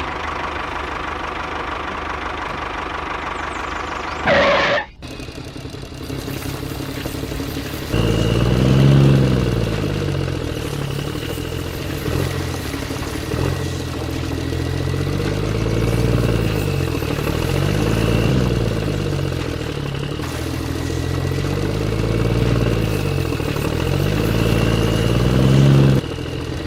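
An engine running steadily, with a brief louder sweep about four seconds in. From about eight seconds on, its note rises and falls in a regular cycle every two to three seconds, with a faint steady whine above it.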